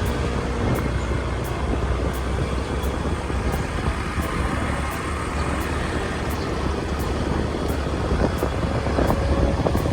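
Motorbike riding along at a steady pace: a steady rumble of engine and rushing air, with no change in speed.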